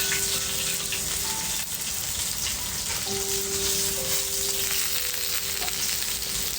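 Meat rolls wrapped in betel leaves (bò lá lốt) frying in hot oil in a pan, with a steady sizzle.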